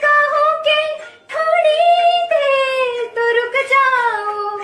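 A high voice singing a slow melodic line in long held notes, with a short break a little over a second in and a long note that slides downward in pitch.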